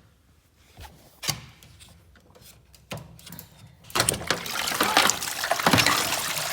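A few short knocks as the drain pump filter of an LG front-loading washing machine is worked open, then about four seconds in a steady gush of water pours out of the opened filter. It is the water left standing in a machine that will not drain (OE error), the filter being clogged with debris.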